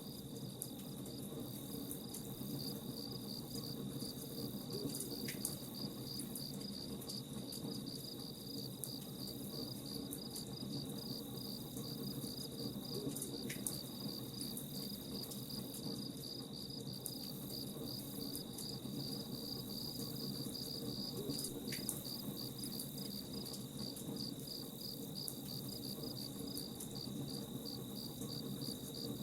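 Crickets chirping in a fast, even, high-pitched trill over the low hiss and crackle of a campfire, with a few sharper pops from the fire.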